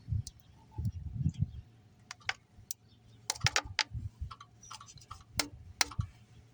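Irregular light clicks and taps from handling the additive container at the engine's oil filler, with a few low thuds in the first second and a half, over a faint steady low hum.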